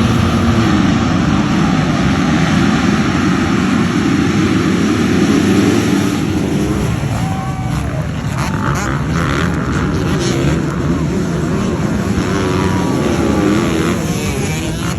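Motocross bike engines running and revving loudly, their pitch rising and falling.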